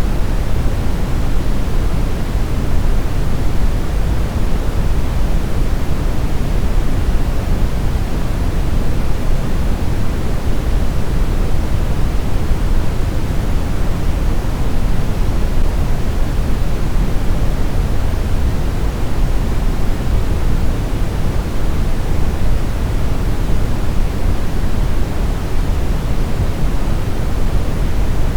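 Steady synthetic brown noise: a deep, even rumble with its energy mostly in the bass and little hiss, unchanging throughout.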